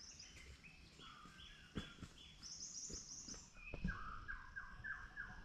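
Forest birds calling: runs of short repeated whistled notes, a middle-pitched run early on, a higher run about halfway through, and a lower run of five or six notes near the end. A few faint knocks sound in between.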